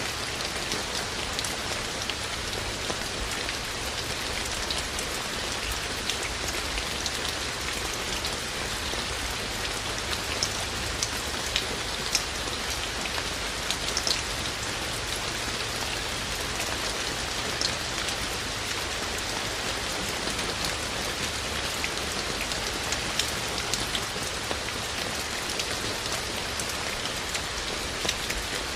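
Steady rain falling, an even hiss with scattered sharper taps of individual drops.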